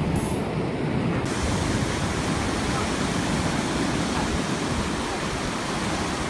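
Ocean surf washing on the beach as a steady rushing hiss, fading near the end.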